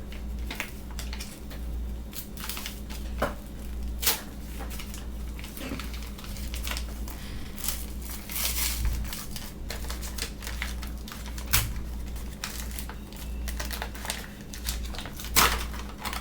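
A flour bag being opened: irregular crinkling and rustling of the packaging, broken by a few sharp clicks or knocks, over a steady low hum.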